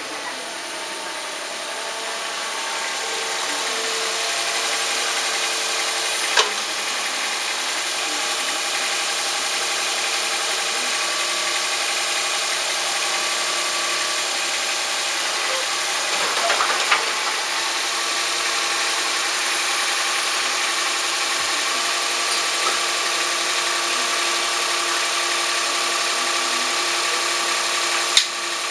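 A motor or engine running steadily, with a few sharp knocks over it.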